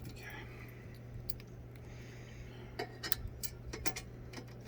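Scattered light clicks and taps of metal hardware and tools being handled while a sewing machine stand is assembled, a few in quick succession near the end, over a steady low hum.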